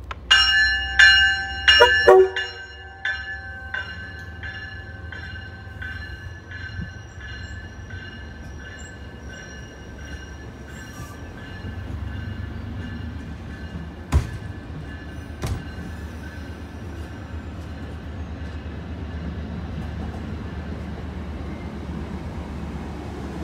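MBTA commuter rail train pulling in cab-car first. Its horn sounds in a few short, loud blasts, then its bell rings at an even pace and fades away, and the passenger coaches roll past with a steady low rumble and two sharp knocks midway.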